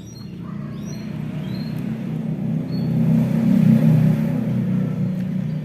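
A motor vehicle passing close by: a low engine rumble swells to its loudest about four seconds in, then fades. A few short, high, falling bird chirps sound over it in the first two seconds.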